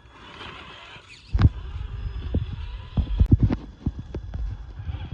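Radio-controlled crawler trucks knocking and clattering over rough ground, with a low rumble, starting suddenly about a second and a half in and with a cluster of louder knocks past the middle.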